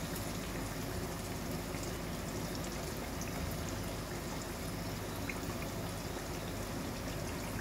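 Marinated parwal (pointed gourd) shallow-frying in oil in a kadai over a low gas flame: a steady, gentle sizzle with faint scattered crackles.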